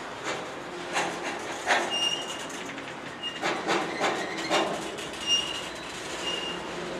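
Freight train well cars rolling slowly past, steel wheels clanking irregularly over the rails, with short high-pitched wheel squeals breaking in several times.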